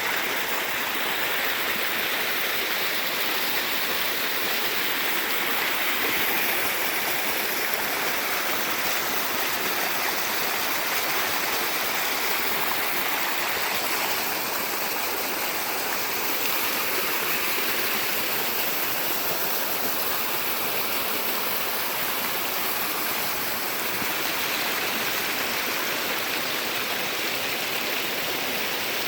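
Creek water flowing and splashing steadily over rocks.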